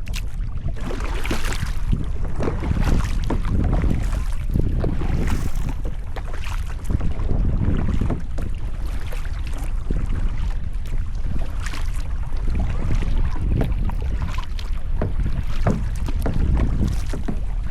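Wind rumbling steadily on the microphone over water splashing and dripping as a sit-on-top kayak is paddled.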